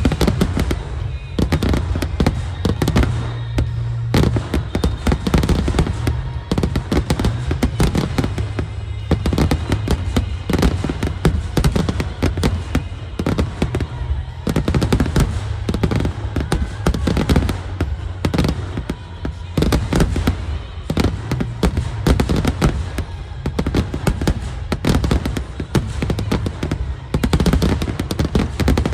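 Fireworks finale barrage: shells bursting in rapid, near-continuous succession, many bangs overlapping on a constant deep booming rumble.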